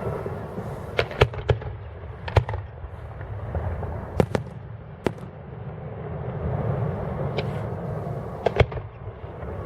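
Fireworks going off: sharp bangs and cracks at irregular intervals, several close together in the first few seconds and a quick pair near the end, over a continuous low rumble of distant booms.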